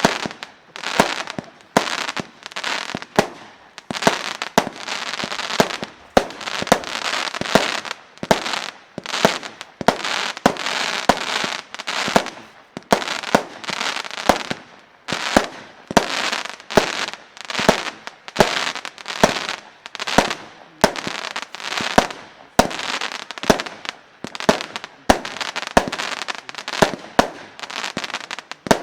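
Consumer firework battery (cake) firing shot after shot at roughly one a second, each sharp launch crack followed by a short noisy burst as the shell breaks.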